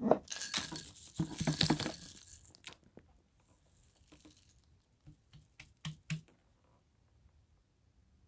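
Crinkling, tearing noise for about two and a half seconds, then a few separate light clicks and knocks.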